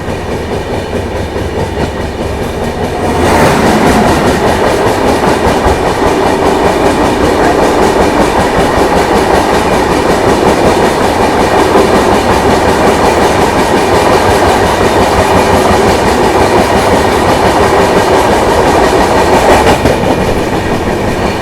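Passenger express train running, heard from on board: the steady rumble and rattle of the moving coach with wheels clicking over the rails. It turns suddenly louder about three seconds in and drops back near the end.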